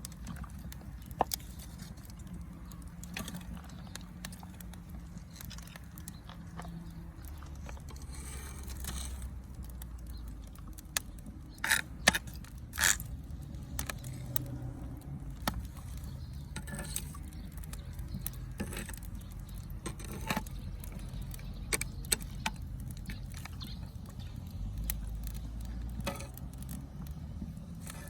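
Wood fire crackling, with irregular sharp pops and snaps over a low steady rumble, a few louder pops near the middle.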